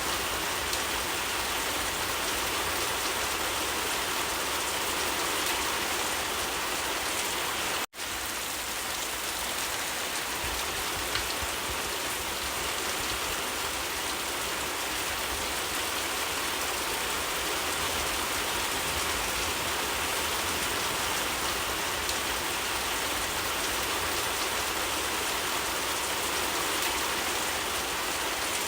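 Steady rain falling, an even hiss of drops with no let-up. The sound cuts out for an instant about eight seconds in.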